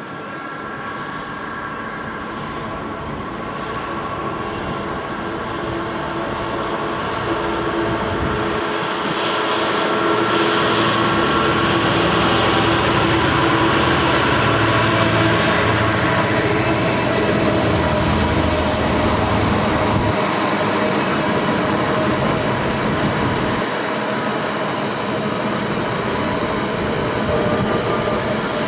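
A train running past on the line, growing louder to a peak around the middle and staying loud, with several steady tones over the rumble of its wheels on the rails.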